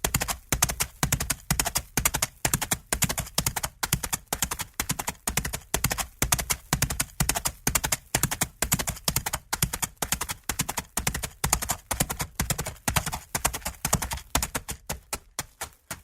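Horse hooves galloping, a fast steady rhythm of hoofbeats in repeating groups that grow sparser over the last couple of seconds.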